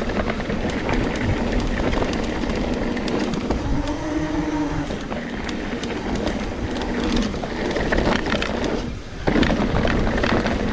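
Trek Slash 9.8 full-suspension mountain bike riding fast down a dirt trail: a steady rush of wind and tyre noise with many sharp rattles and clicks as the bike takes the bumps. The noise drops briefly about nine seconds in.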